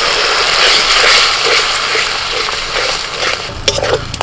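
Ground tomato poured into hot oil and spice paste in an aluminium kadai, frying with a loud sizzle that swells about a second in and then eases. Near the end a metal spatula clicks and scrapes against the pan as the masala is stirred.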